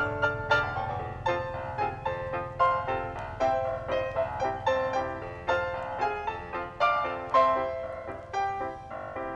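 Background music: a piano melody of single struck notes, a few a second, each ringing and fading.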